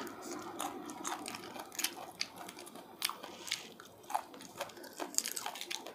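Chewing a raw green chili pepper, with irregular crisp crunches as it is bitten and chewed.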